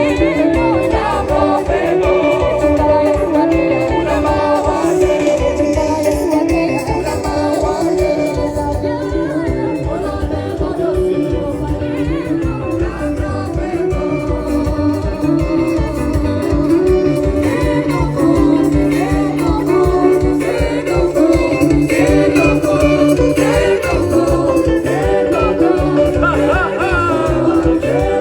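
Live band music with singing, guitar and a steady beat.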